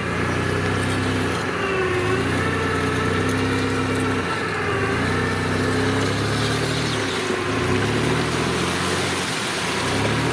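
Off-road SUV engine running under load, its engine speed rising and falling repeatedly as the driver works the throttle.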